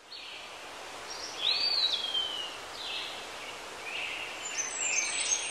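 Birds calling over a steady outdoor hiss. About a second and a half in there is a whistled note that rises and then slides down, and quick high chirps come near the end.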